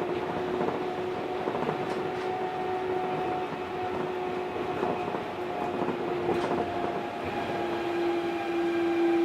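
Osaka Monorail 1000 series rubber-tyred monorail car running along the track beam, heard from on board: a steady rumble with a humming motor tone that grows stronger near the end, and a few faint clicks.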